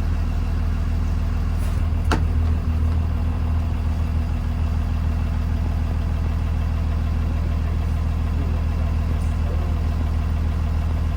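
2020 Blue Bird Vision school bus engine idling steadily, with one sharp click about two seconds in.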